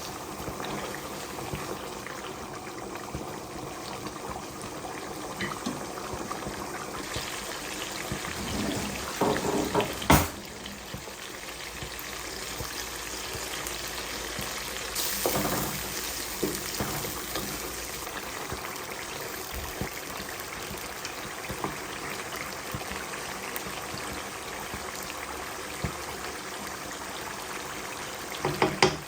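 Steady watery noise of kitchen liquid, with a few light knocks of utensils and one sharp clack about ten seconds in.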